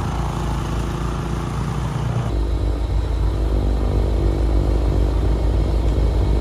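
An engine running steadily, its sound changing abruptly about two seconds in.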